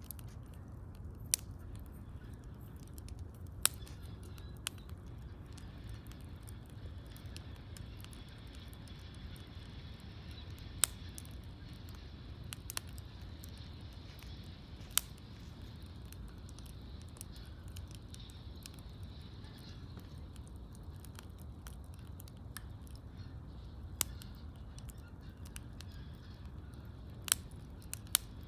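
Wood campfire crackling: sharp single pops every few seconds at irregular intervals over a steady low rumble.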